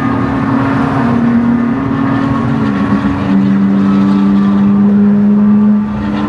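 Porsche 992 GT3's naturally aspirated 4.0-litre flat-six engine running under way, heard from inside the cabin. It holds a steady note whose pitch steps down about three seconds in, then briefly rises near the end as the sound dips.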